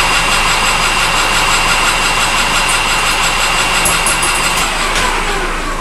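Metal lathe running with a steady high whine, then switched off about four and a half seconds in and winding down.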